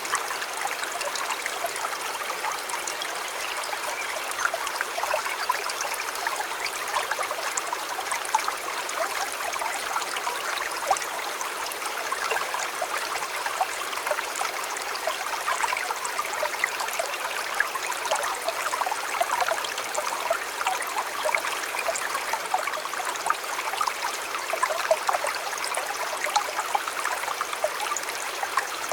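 River water flowing steadily, with a dense patter of small splashes and gurgles.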